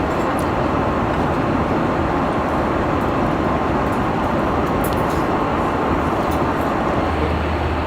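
Airliner cabin noise in cruise: a steady rushing of air and engines, with a couple of faint light clicks and a low hum coming in near the end.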